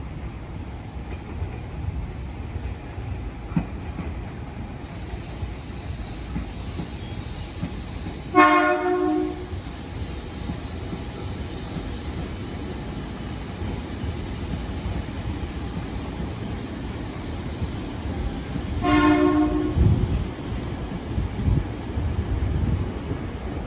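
Tokyo Metro 6000-series electric commuter train running through the station with a steady rolling rumble. A train horn sounds two short blasts, about ten seconds apart.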